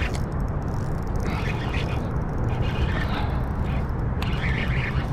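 Strong wind buffeting the action camera's microphone: a steady low rumble, with short gusts of higher hiss coming and going.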